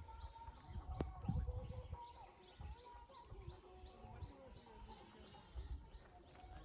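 A bird repeating a short, high chirp about two or three times a second, with fainter calls behind it and low bumps of outdoor noise.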